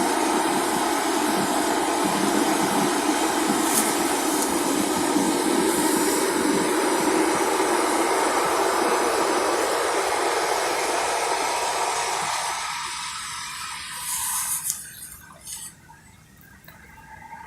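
A loud, steady rushing noise with no clear pitch, which fades away from about twelve seconds in until it is faint near the end.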